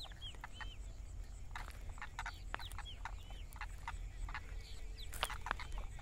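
Birds calling: a steady scatter of short, sharp calls and quick rising-and-falling chirps, several a second, over a low rumble.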